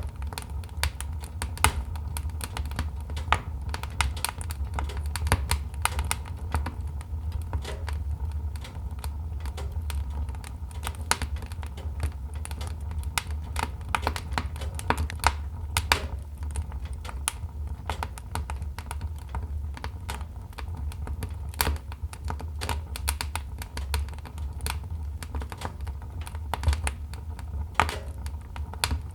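Wood fire crackling: irregular sharp snaps and pops, a few louder than the rest, over a steady low rumble of burning logs.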